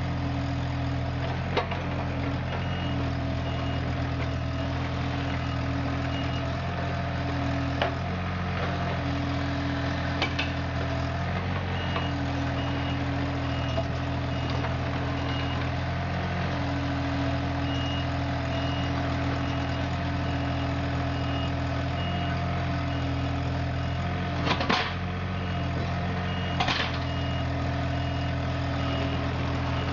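A machine's engine running steadily at a constant speed. A high alarm beep repeats in long runs, and a few sharp knocks sound, two of them near the end.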